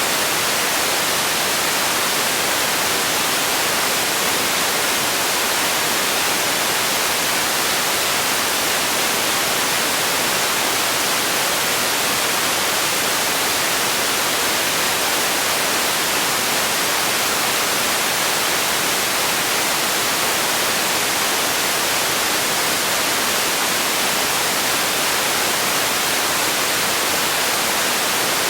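Steady white noise: an even, unchanging hiss, strongest in the upper range with little low rumble.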